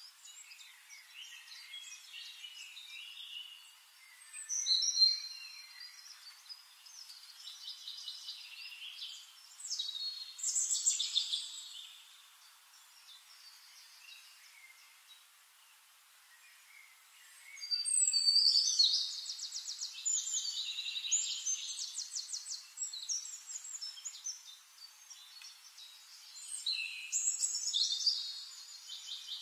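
Songbirds chirping and singing, in high phrases of chirps and fast trills that come back every few seconds.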